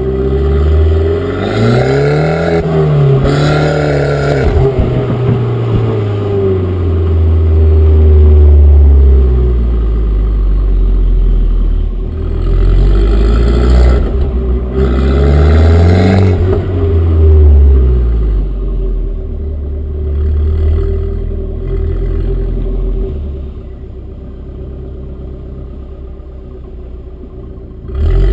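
Abarth Grande Punto's 1.4 turbo four-cylinder running through a decatted exhaust, with the catalytic converter removed. The engine is revved up and comes back down twice, then settles lower and quieter near the end.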